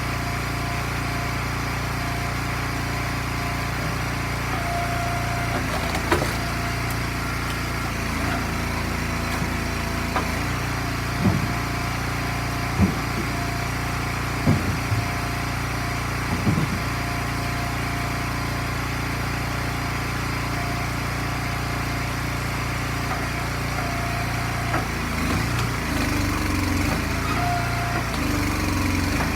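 Small gas engine of an Eastonmade log splitter running steadily, with several sharp knocks over the middle of the stretch.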